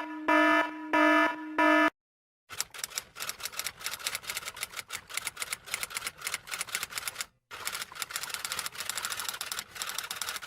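Four loud electronic beeps in quick succession, then after a short pause a long run of rapid typing clicks, like fast typing on a typewriter or keyboard, with one brief break partway through.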